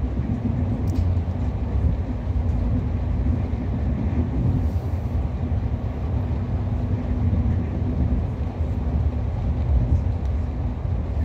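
Passenger train running at speed, heard from inside the carriage: a steady low rumble of wheels on the rails and running gear, with no breaks or changes.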